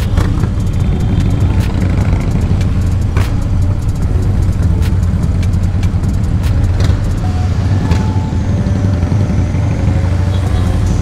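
Harley-Davidson Dyna Clubstyle's V-twin engine running steadily under way through a Two Brothers Racing two-into-one shorty exhaust, its sound mostly deep. A few sharp clicks sound over it.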